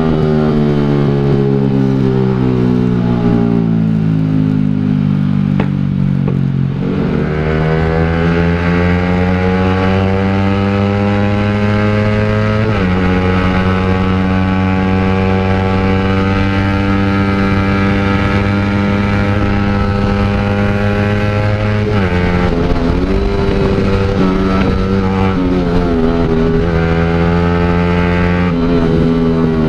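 Motorcycle engine through an aftermarket exhaust while riding: the revs fall for the first several seconds, then climb steadily through the gears, dropping sharply at each upshift about 13, 22 and 28 seconds in.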